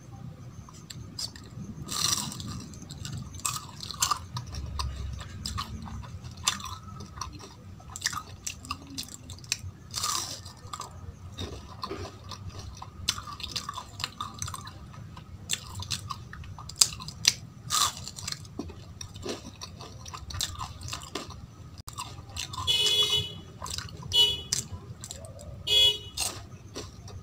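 Close-miked chewing and crunching of a crisp, syrup-soaked jalebi, with irregular wet mouth clicks and smacks. Three short high-pitched squeaky tones come near the end.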